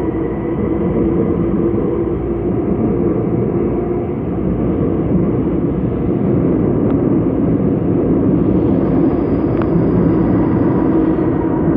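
Seoul Subway Line 5 electric train running at speed: a steady, loud rumble of wheels on rail with a low motor hum.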